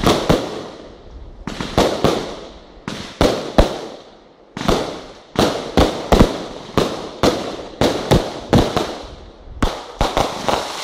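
Fireworks display with about twenty sharp bangs going off at irregular intervals, each trailing off quickly. There is a short lull about four seconds in, then the bursts come in quick succession.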